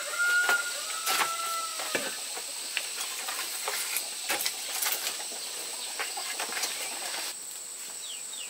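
A bird calls twice in the first two seconds, a short high note and then a longer arching one that falls away at the end. Scattered clicks and rustles run under it, with a steady high buzz that stops near the end.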